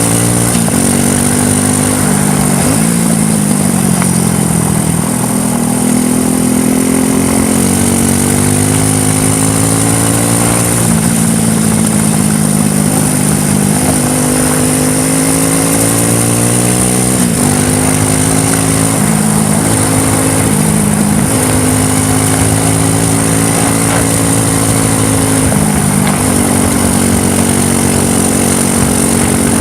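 ATV quad bike engine running on a downhill ride, its pitch rising and falling with the throttle and dropping sharply several times, with road and tyre noise over it.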